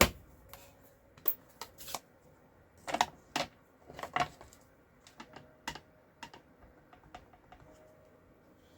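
Irregular light clicks and taps of stamping supplies being handled on a craft desk: a clear photopolymer stamp, its block and cardstock being positioned and pressed. The loudest taps come about three and four seconds in, then they thin out.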